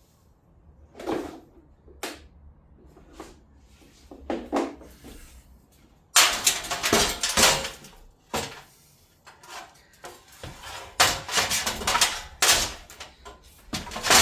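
Knocks and thumps, then loud bursts of clattering and banging from about six seconds in: a motorcycle engine being manhandled onto a steel welding table.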